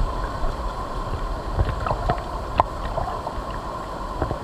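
River water rushing around a raft, with a few sharp knocks.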